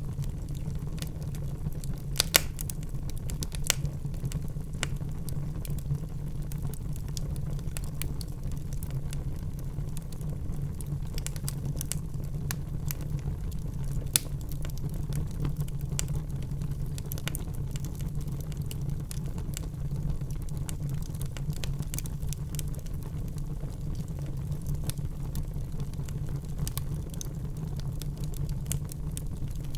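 Wood fire in a fireplace crackling, with irregular sharp pops over a steady low rumble; two louder pops come about 2 seconds and 14 seconds in.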